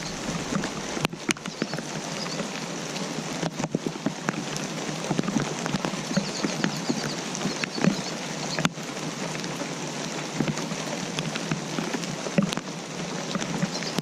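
Steady rain: a dense patter of raindrops hitting a surface, with a few sharper, louder drop hits now and then.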